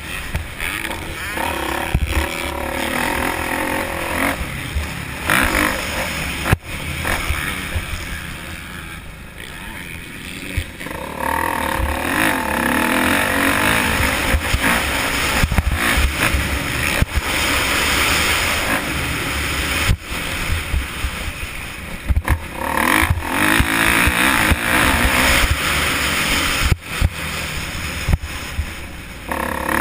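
Motocross dirt bike engines revving up and down through the gears, the level dropping for a few seconds around a third of the way in and then rising again.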